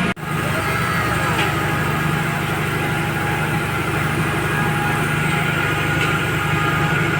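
Toyota Corolla engine idling steadily with the newly installed air-conditioning system running.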